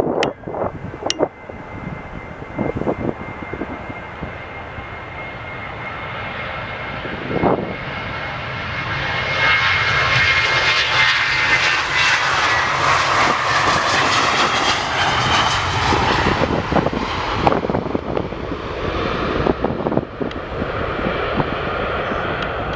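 Jet airliner's engines passing close, building to a loud peak about halfway through and then easing off, with a steady high whine from the engines in the first half. Wind gusts buffet the microphone near the start.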